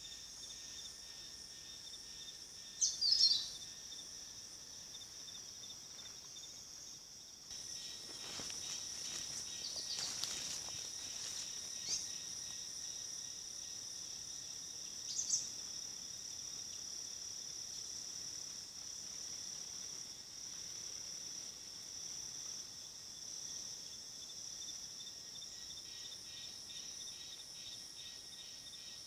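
Insects keeping up a steady high-pitched drone, with three short sharp bird chirps (about three seconds in, then near the middle) and a few seconds of rustling noise in between.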